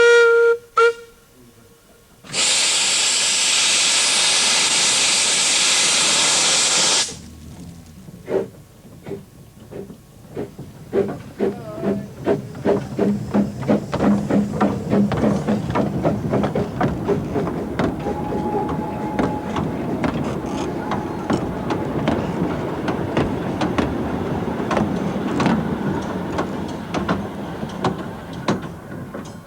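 Narrow-gauge steam locomotive on the Talyllyn Railway setting off: two short whistle toots, then a loud burst of steam hiss lasting about four seconds, then the exhaust beats starting slow and quickening as the train pulls away.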